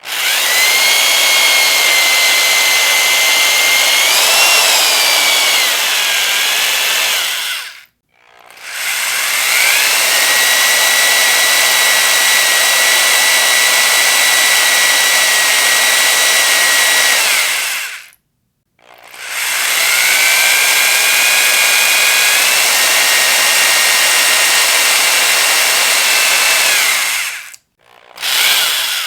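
Electric power drill running in three long bursts of about eight to nine seconds with short pauses between, then starting again near the end. Each burst is a steady high whine that rises as the motor spins up and drops away as it stops, with a brief wavering in pitch in the first one.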